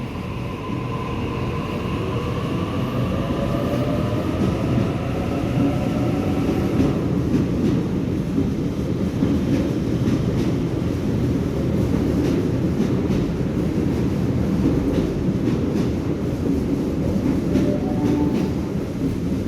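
Sydney Trains Waratah Series 1 electric train pulling away from the platform: its traction motors whine in several tones that slowly rise in pitch for the first several seconds as it accelerates. The whine then gives way to a steady rumble of wheels on rail with light clicks as the carriages roll past.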